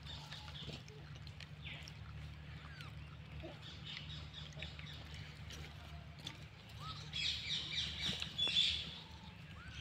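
Small birds chirping on and off, with a louder burst of rapid, overlapping chirps about seven seconds in, over a steady low hum.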